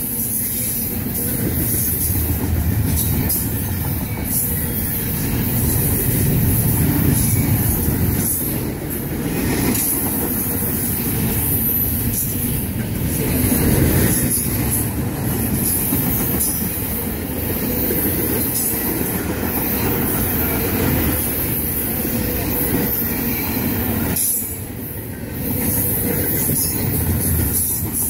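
Double-stack intermodal well cars of a freight train rolling past at close range: a continuous rumble of steel wheels on rail with a hiss above it, dipping briefly about three quarters of the way through.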